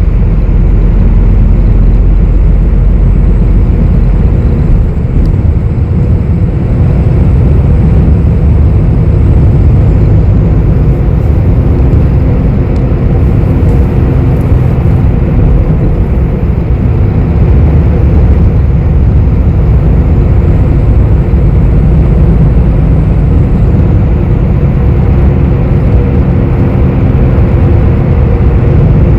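Steady low rumble of a city bus's engine and road noise, heard from inside the passenger cabin.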